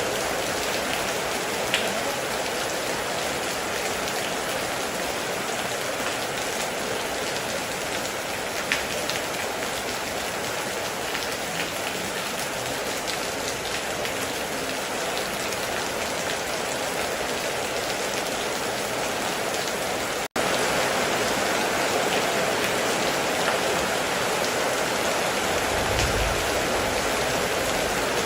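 Heavy rain falling steadily on a metal roof, with a few louder single drops. The sound cuts out for an instant about two-thirds of the way through and resumes a little louder.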